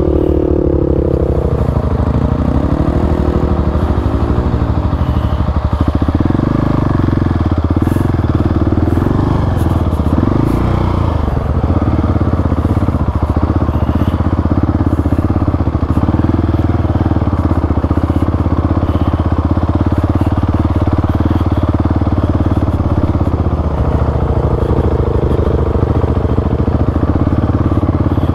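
Single-cylinder dual-sport motorcycle engine running under load through soft sand dunes, its revs rising and falling in the first few seconds, then holding steadier, with a rise again near the end.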